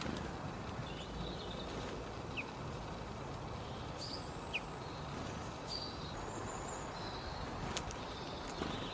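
Outdoor ambience: a steady low background noise with faint, scattered high bird chirps, including two short quick notes a couple of seconds apart.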